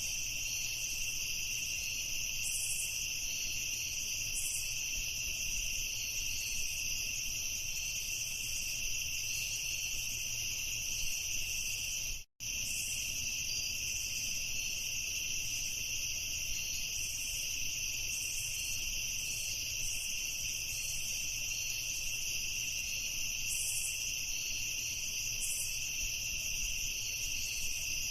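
Dense chorus of crickets chirping steadily in a high, even trill. Just past twelve seconds in it cuts out for a split second, then carries on.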